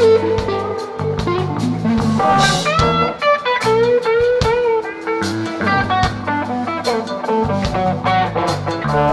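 Rock band playing an instrumental passage: an electric guitar lead with bent, wavering notes over bass guitar and drums.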